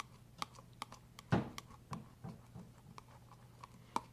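A utensil clicking and knocking against a mixing bowl while glue-and-borax slime is scraped off its sides, with one heavier knock about a second and a half in. A steady low hum runs underneath.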